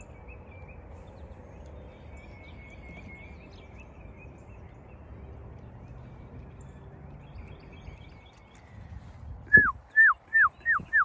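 Steady outdoor background with faint songbird trilling. Near the end come five loud, quick whistles, each sliding down in pitch.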